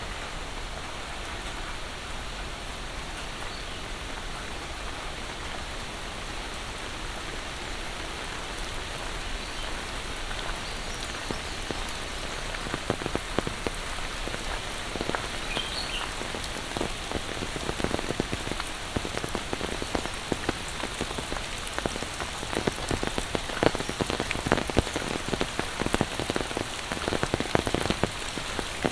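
Monsoon rain falling steadily, with close, sharp drop impacts tapping more densely and loudly from about halfway through.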